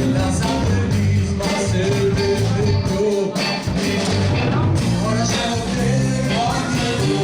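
A blues band playing: guitars, keyboards, bass and drums, with harmonica.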